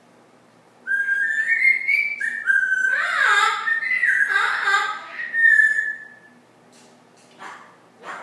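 Pet parrot whistling a tune in a run of clear stepped notes, with two falling swoops in the middle, stopping about six seconds in.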